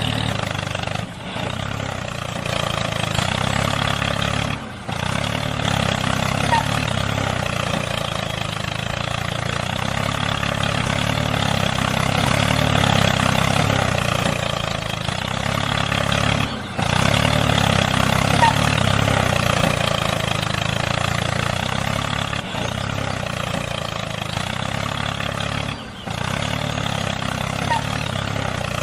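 Small engine running steadily, which drops out briefly four times.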